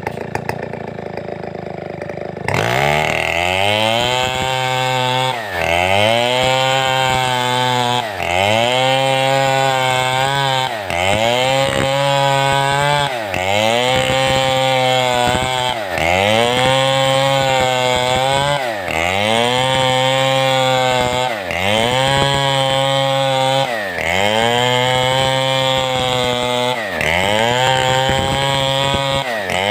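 Big 070-class two-stroke chainsaw idling, then opened up to full throttle a couple of seconds in and cutting through timber. Its engine note sags and recovers about every two and a half to three seconds as the chain bites into the wood under load.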